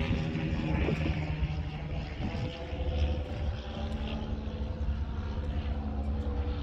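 Steady drone of a distant engine, holding several even tones, under low wind rumble on the microphone.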